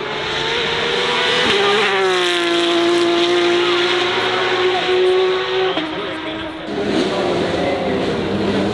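Racing car engine revving up, then held at a steady high pitch for about four seconds before the revs fall away.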